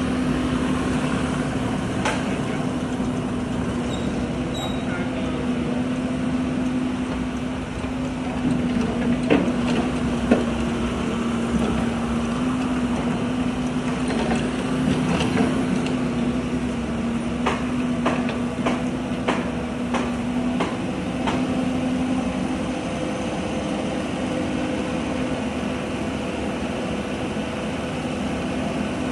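Mini excavator engine running steadily under work, with scattered knocks and clanks from the bucket working the ditch, most of them in the middle stretch.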